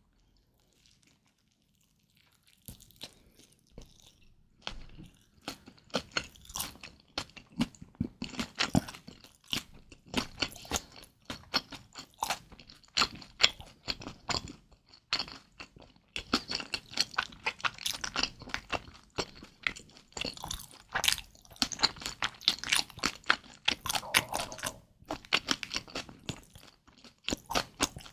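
Close-miked chewing of kimchi dumplings: rapid wet crunches and crackles of mouth sounds. It starts after about two and a half seconds of near silence and pauses briefly about halfway through.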